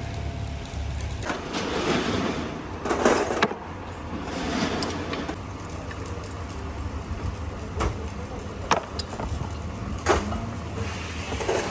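Workshop sounds during engine repair: a steady low hum with rustling, then several sharp knocks and clicks, as of tools and parts being handled.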